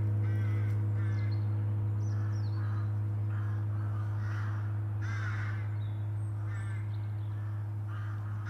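A gong ringing out after a strike, a loud low hum that fades slowly, while crows caw repeatedly.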